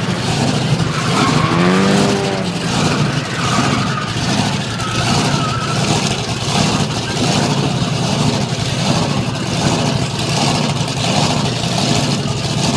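Monster truck engine running loud, revving up and down about once a second.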